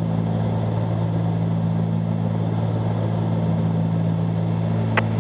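Steady drone of a 1974 Cessna 310Q's twin piston engines and propellers in cruise, heard from the cockpit. There is a single short click about five seconds in.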